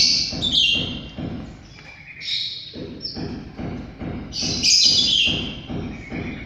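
Orange-headed thrush calling in several bursts of short, high notes that fall in pitch; the loudest come right at the start and about two-thirds of the way through.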